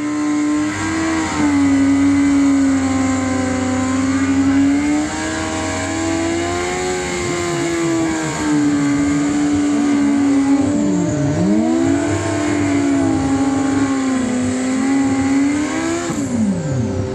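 Drag-racing motorcycle engines held at high revs, the pitch wavering up and down, with two sharp dips in pitch that recover quickly, about two-thirds of the way through and near the end.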